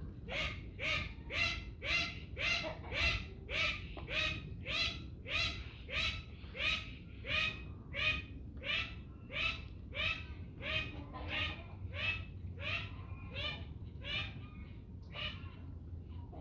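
A bird of the backyard poultry flock calling in a long, even series, about two calls a second, the calls growing weaker near the end.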